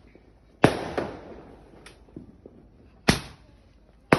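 Firecrackers going off in separate sharp bangs: loud ones about half a second in, at about three seconds and at the very end, and a fainter pop around two seconds. Each bang dies away quickly.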